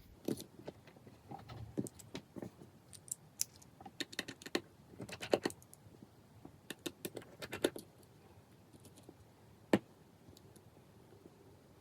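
Small, irregular clicks and taps of tools and parts being handled while an iPhone 5s is taken apart, coming in clusters, with one sharper click late on.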